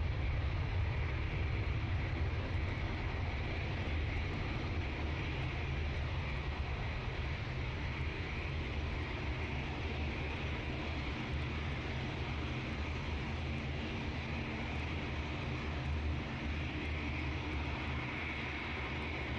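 Jet airliner engines running steadily: a continuous rumble with a hissing whine on top, slowly fading.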